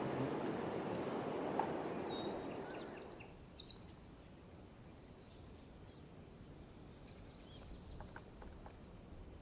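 Outdoor ambience: a broad noise that fades away over the first three seconds, then quieter air with small birds chirping high in the background in two short spells, and a few faint ticks near the end.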